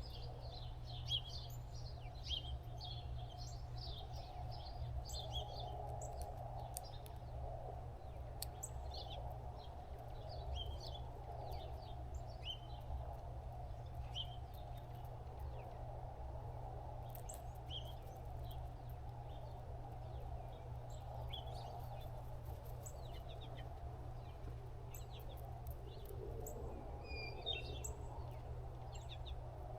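Small birds chirping, with many short high calls scattered throughout, over a steady low hum and background noise.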